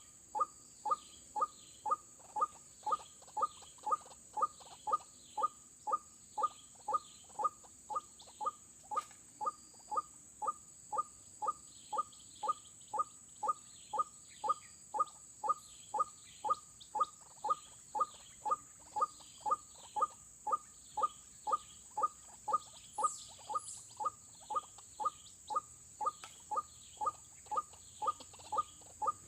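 White-breasted waterhen (ruak-ruak) calls, short and repeated very evenly about twice a second, over a steady high whine. The machine-like regularity fits a looped lure call used to draw waterhens to snares.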